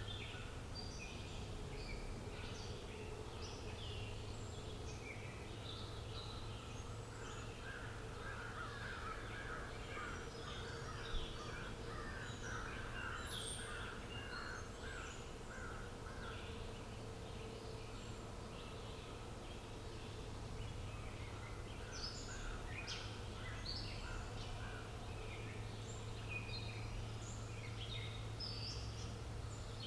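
Outdoor dawn-chorus-style ambience: several birds chirping and singing throughout, including a fast run of repeated notes in the middle and again later. Beneath them runs a steady low hum, and there is one sharp click about eleven seconds in.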